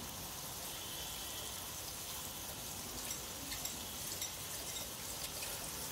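Skewered marinated prawns frying in a shallow layer of mustard oil in a flat pan: a steady, quiet sizzle with a few faint crackles.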